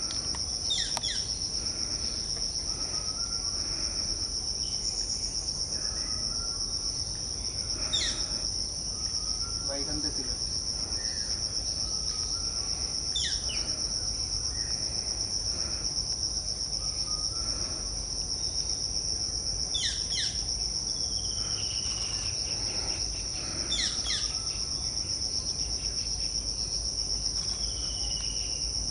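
Steady, high-pitched insect drone from crickets or cicadas, with short, sharp bird calls every few seconds and a couple of longer falling whistles.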